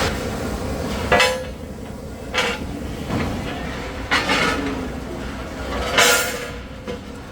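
Heavy metal parts clanking: four sharp metallic knocks, each ringing briefly, spaced a second and a half to two seconds apart.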